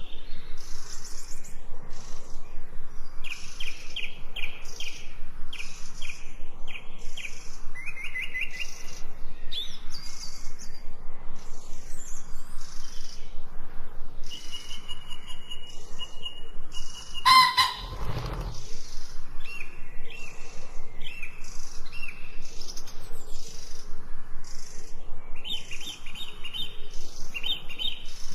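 Small songbirds chirping and trilling continuously in quick repeated high notes, several overlapping. About two-thirds of the way through, a single louder, lower call cuts across the chirping.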